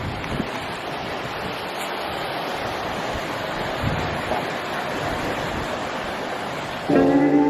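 Ocean surf washing steadily onto the beach, with wind on the microphone. Music starts abruptly near the end.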